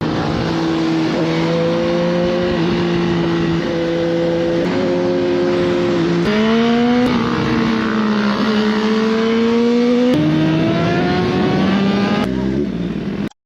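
Motorcycle engine pulling hard under acceleration, its pitch climbing slowly and dropping at upshifts about 6 and 10 seconds in, over wind and road noise. The sound cuts off suddenly near the end.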